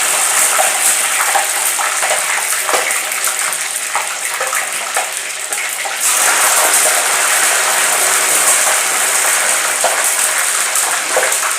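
Chicken pieces sizzling and crackling as they deep fry in hot oil in a pot, a steady hiss that grows louder about six seconds in.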